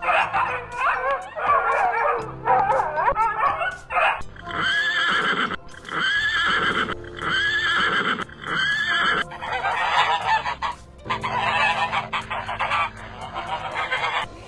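Animal calls over steady background music: a horse's wavering whinny first, then a run of about five short, evenly spaced calls and more calls after them.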